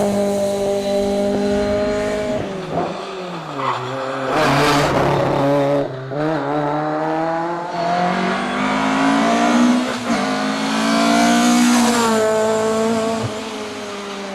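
Fiat 131 Abarth Rallye engine, a twin-cam four-cylinder, driven hard on a tarmac stage: revs climb and drop sharply at gear changes several times. The pitch falls away as the car slows about three seconds in, and a brief rushing noise comes around four to five seconds in.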